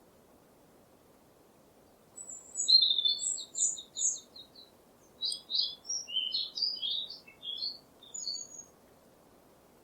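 Songbird singing. About two seconds in, a fast trill of short high notes starts, followed by a run of varied chirps that ends near the end, over a faint steady hiss.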